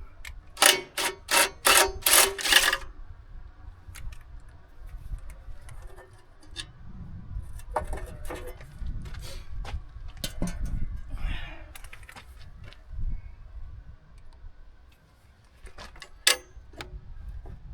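Hand tools working on tractor battery hardware: a quick run of about six sharp metallic clinks with a slight ring, then scattered lighter clicks and knocks as nuts and fittings are worked loose.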